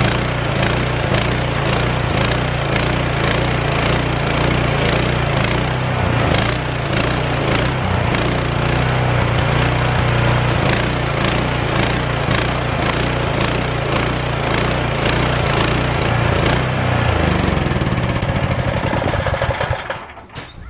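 13-horsepower gas engine of a pressure washer running steadily under load, with a broad hiss from the spray. Near the end it winds down and stops.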